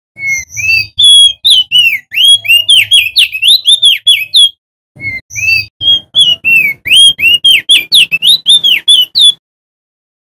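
Male crested white-eye (opior jambul) singing: two loud, fast phrases of clear whistled notes that slur up and down, each about four seconds long with a short pause between them.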